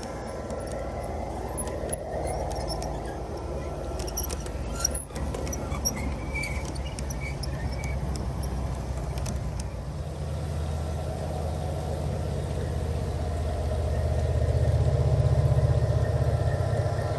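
Train running with a steady low rumble that grows louder near the end, with a few sharp clicks about four to six seconds in.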